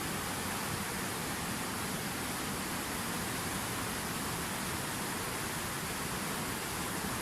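Fountain waterfall: water falling and splashing in a steady, unbroken rush.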